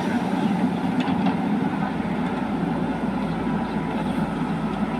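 JCB 3DX backhoe loader's diesel engine running steadily, with a couple of faint knocks about a second in.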